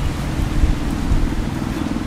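Steady low rumble with an even hiss over it: a train approaching along the line from a distance.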